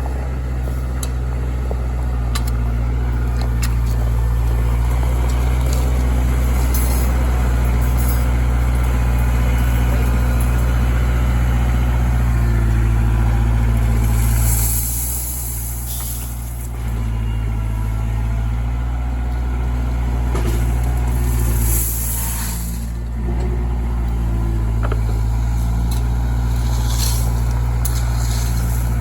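Heavy truck's diesel engine running steadily, with two short hisses about halfway through and again about three quarters of the way through, where the engine drops in level for a moment.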